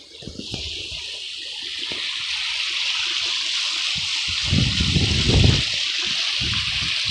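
River water rushing over rocks, a steady hiss that swells louder over the first couple of seconds as it is approached. Low rumbling gusts come in about four and a half seconds in.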